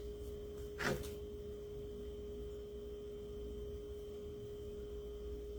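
A faint, steady, pure electrical tone with low hum beneath it, and a brief rustle about a second in.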